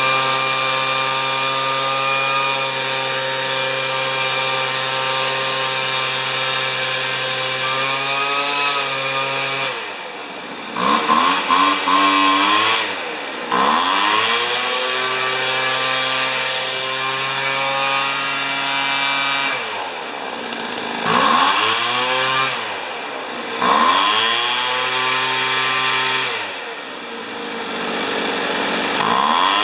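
Weed Eater leaf blower's small two-stroke engine running at a steady speed, then from about a third of the way in repeatedly dropping in revs and being throttled back up, several times over.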